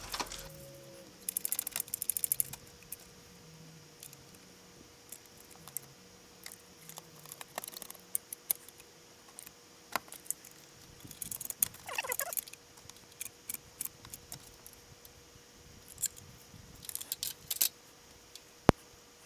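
Handling noises as a new RV skylight is set into its roof opening: scattered clicks, rattles and scrapes, with a quick rattling run early and a sharp click near the end. A faint steady hum runs underneath.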